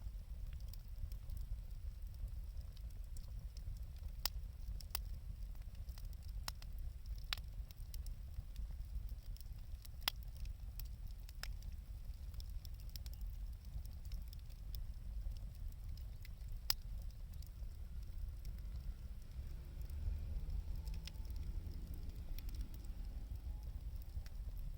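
Wood fire burning, with irregular sharp pops and crackles from the burning timber over a steady low rumble.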